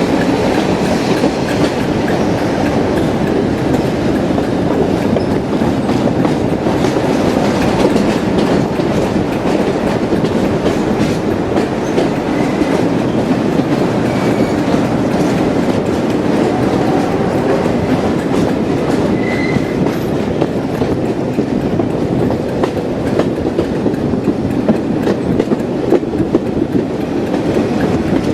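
Diesel-hauled heritage train running along the line: a steady, loud rumble with wheels clicking over the rail joints.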